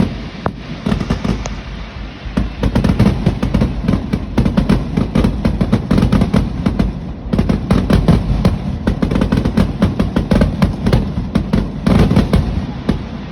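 Fireworks crackling and popping in a rapid, dense string of sharp bangs, many a second, easing briefly about two seconds in and again about seven seconds in.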